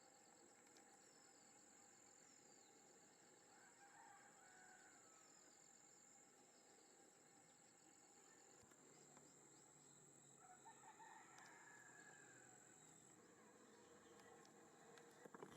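Faint rural ambience: a steady high insect drone like crickets, with distant domestic fowl calling about four seconds in and again around two-thirds of the way through.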